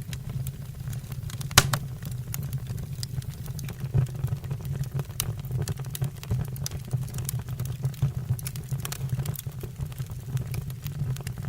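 Wood fire burning in a fireplace: logs crackling with irregular sharp pops over a low steady rumble of flame, one louder pop about a second and a half in.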